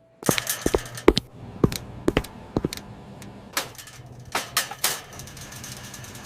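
An irregular run of sharp knocks and clicks, several close together at first and thinning out after about five seconds, over a steady low hum.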